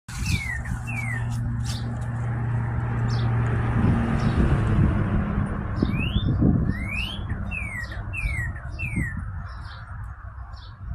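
Several birds calling with short slurred whistles, some falling and some rising, plus quick high chattering notes, most of them in the second half. Under them runs a steady low hum that fades out a little past halfway.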